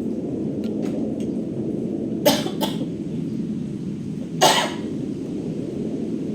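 A person coughing: a quick double cough a little over two seconds in and one more about two seconds later, over a steady low rumble of storm wind and rain.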